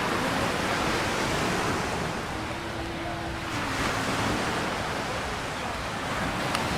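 Atlantic surf washing onto the beach: a steady rush of breaking waves.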